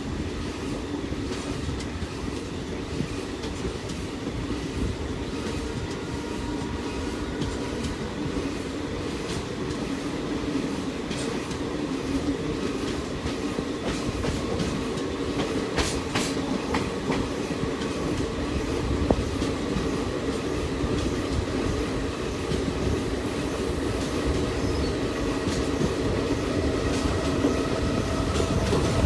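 Passenger train running: a steady rumble of the coach on the track with a few sharp wheel clicks, getting gradually louder.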